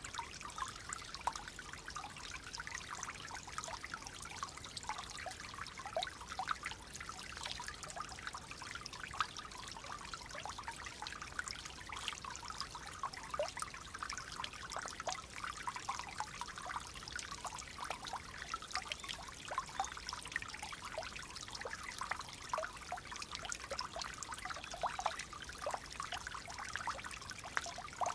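Gently flowing water in a small stream, trickling steadily with many small splashes.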